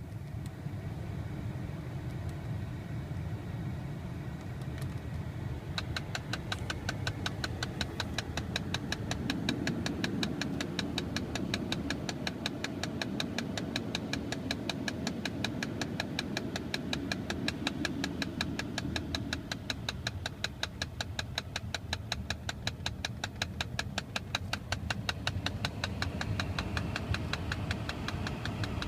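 Mercedes-Benz C320 running, with a rapid, regular clicking that starts about six seconds in and keeps on steadily, the sound of its HVAC fault.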